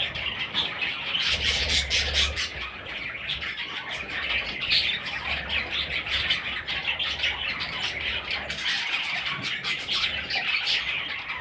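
Budgerigar chicks squawking and chattering continuously in many short, overlapping calls.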